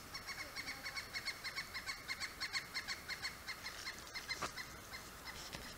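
A bird calling in a fast, even series of short, high, clipped notes, about six a second, fading near the end. A single sharp click comes about four and a half seconds in.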